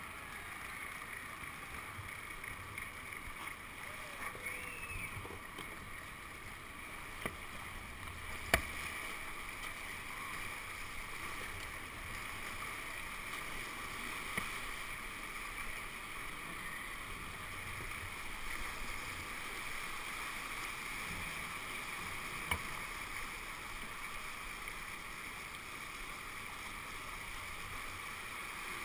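Rushing whitewater around a kayak being paddled down a man-made whitewater channel. A few sharp knocks stand out, the loudest about eight and a half seconds in.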